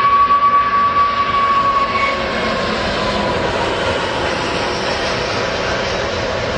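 Aircraft engine running: a high whine holds steady for the first couple of seconds, then slowly drops in pitch and fades, over a continuous rushing noise.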